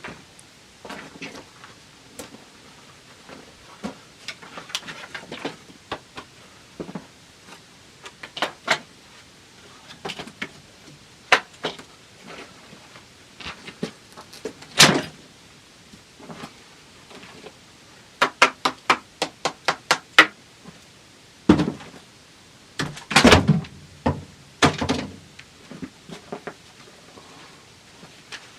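Irregular knocks and clunks, with runs of quick, evenly spaced strikes, about five a second, around eighteen seconds in and again at the very end.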